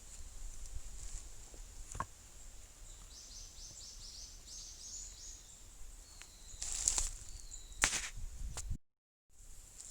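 A small bird sings a quick run of short falling notes a few seconds in, over a steady faint hiss, with scattered clicks and two louder rustling knocks near the end.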